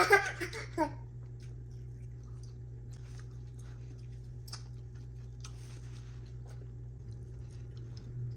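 Toddler chewing and eating food, with small soft clicks and mouth sounds, over a steady low hum. A short high vocal sound comes in the first second.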